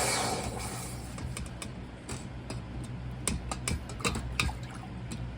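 Scattered light clicks and taps as a freshly cast copper piece is punched free and handled, over a low steady hum.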